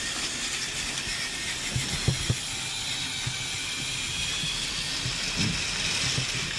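Motor of a battery-powered TrackMaster toy tank engine running steadily with a high whine as it climbs a hill on plastic track, with a few light knocks about two seconds in and again near the end.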